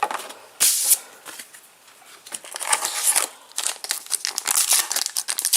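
A foil trading-card packet crinkling and tearing as it is opened, with a sharp tear just under a second in, then dense crinkling and rustling of the wrapper and cards.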